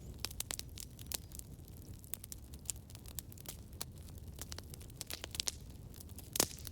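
Campfire crackling: irregular sharp pops and snaps of burning wood over a steady low rumble of the flames, with one louder pop near the end.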